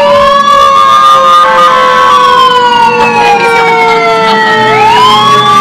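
Several fire truck sirens sounding loudly together. One wails, rising quickly at the start and again near the end and sliding slowly down in between, while another tone winds slowly down in pitch throughout.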